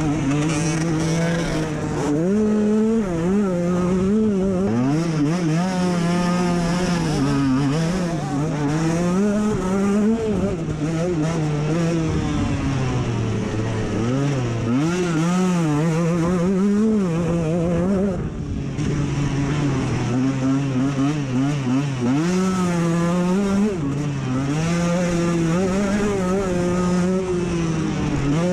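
Dirt bike engine ridden hard: the revs climb and drop over and over as the rider works the throttle and shifts, with a brief let-off about two-thirds of the way through.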